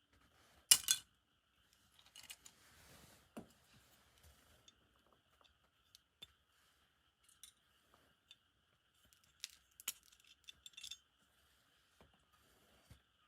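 Small metal parts of a Tomica die-cast toy car clicking and clinking against a hard surface as the car is taken apart. The clicks are scattered and sharp, the loudest about a second in, with a faint steady high hum underneath.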